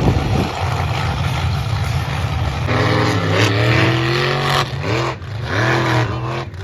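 Monster truck engines running loud, then revving hard from about a third of the way in, the pitch climbing and dropping in several swells as the trucks race.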